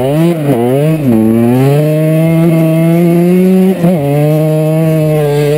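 KTM 125 EXC two-stroke single-cylinder engine, revved in quick blips for about the first second, then held at steady high revs that creep slowly upward. There is a brief dip in revs just before the four-second mark.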